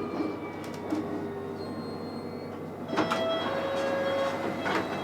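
Interior running noise of a London Underground Metropolitan line S8 stock train slowing into a station: a steady rumble with the whine of the traction motors. About three seconds in it grows louder, with new tones and a few sharp clicks.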